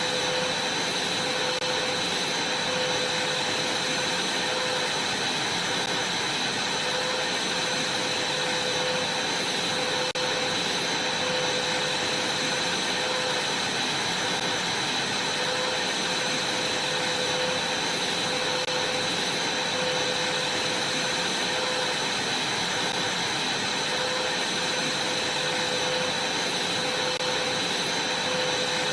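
Vacuum cleaner running steadily, a constant high whine over the rush of its airflow.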